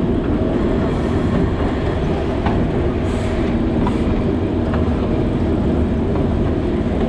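Alishan Forest Railway narrow-gauge train running along the track: a steady low rumble of the running gear, with a few faint clicks from the wheels on the rails.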